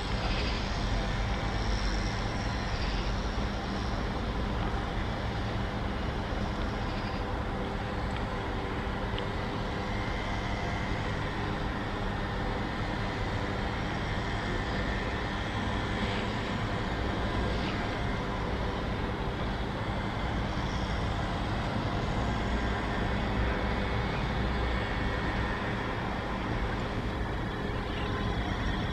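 TER regional train approaching slowly along station tracks from a distance, a steady low rumble and hum.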